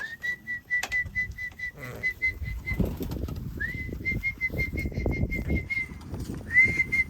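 Three long whistled recall calls to bring a pigeon into its loft. Each is a fluttering held tone that slides up at the start, with low rustling and scuffing underneath.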